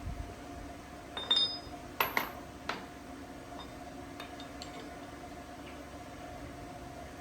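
Metal parts or tools clinking and knocking against each other: a ringing clink about a second in, then three sharp knocks over the next second and a half, with a few faint ticks after. A steady machine hum runs underneath.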